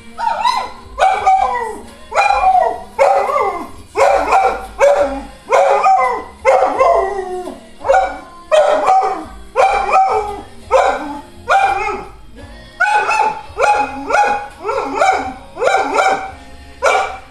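A dog howling and whining along to TV theme music in a long run of short, pitched, wavering cries, about one a second, with the music playing underneath.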